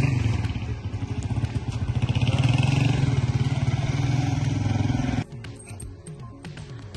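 Motor vehicle engine running close by, loud and steady, that cuts off suddenly about five seconds in.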